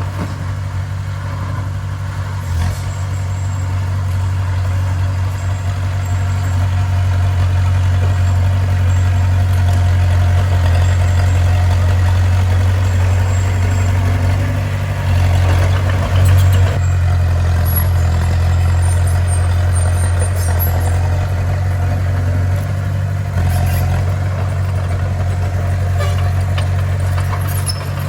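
Bulldozer's diesel engine running steadily, a deep continuous drone that swells slightly now and then.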